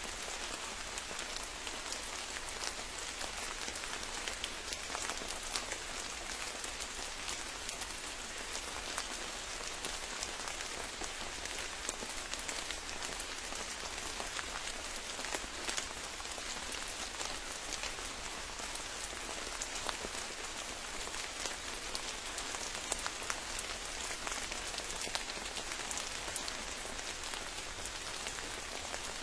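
Steady rain, with many separate close drop hits ticking through an even hiss of rainfall.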